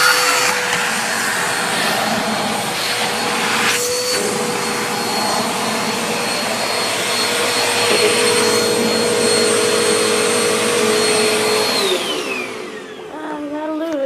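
Bissell Aeroswift compact bagless upright vacuum running steadily with a motor whine. Near the end it is switched off and the whine falls in pitch as the motor winds down.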